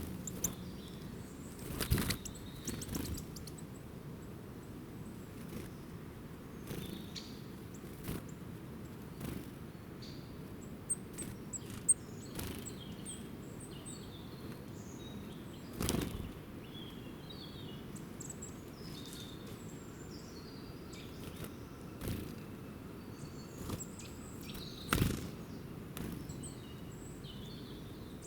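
Small birds chirping with short, high calls scattered throughout, over a steady low outdoor background noise. A few brief, louder rustles stand out, the strongest about two, sixteen and twenty-five seconds in.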